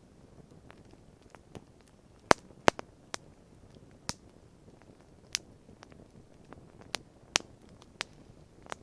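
Wood campfire crackling: sharp, irregular pops over a faint steady background, the two loudest coming close together a little over two seconds in.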